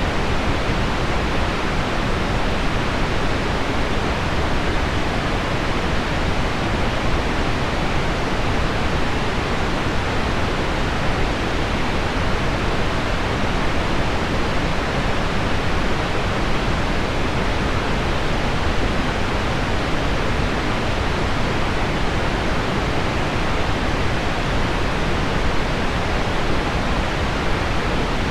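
Heavy rain on window glass blended with low pink noise, making a dense, unchanging hiss weighted toward the low end.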